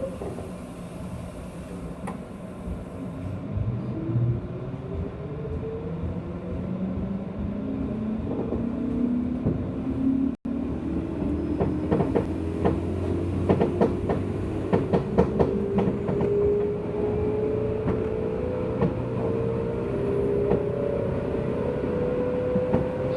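JR West 201-series electric train pulling away, its traction motor whine rising steadily in pitch as it gains speed over a low rumble. From about halfway in, the wheels clack over rail joints.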